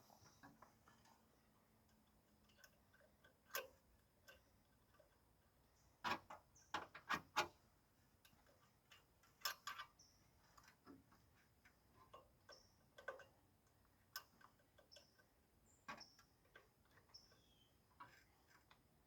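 Scattered small clicks and taps of metal parts being handled, against near silence. A quick run of louder clicks comes about six to seven seconds in.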